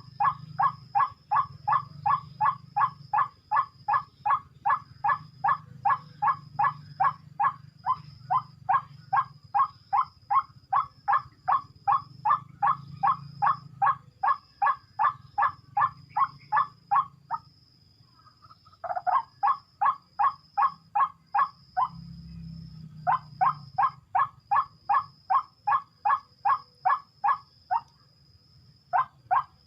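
White-breasted waterhen calling: a long, even series of short, harsh notes at about two and a half a second, breaking off twice and starting again. A faint steady high whine runs underneath.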